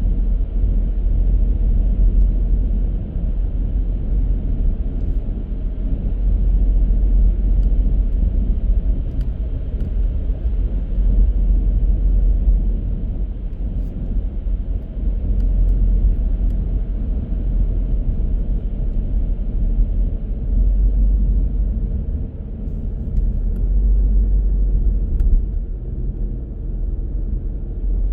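A car driving along the road: a steady low rumble of engine and tyre noise that swells and eases slightly.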